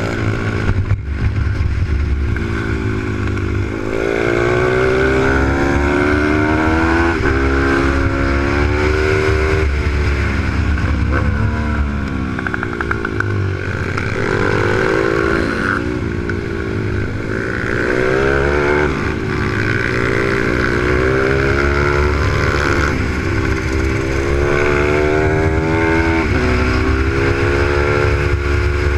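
Single-cylinder Z155 pit bike engine on a supermoto lapping a kart track, heard from onboard: the engine note climbs as it accelerates, drops back on the throttle for corners, and climbs again, about eight times, over rough wind rumble on the camera microphone.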